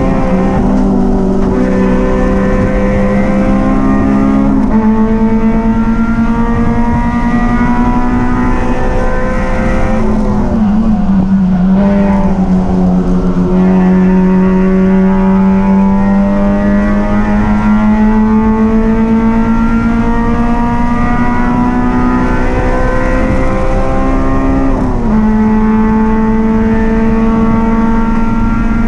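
Race car engine running hard at steady high revs, dipping briefly about eleven seconds in before pulling back up.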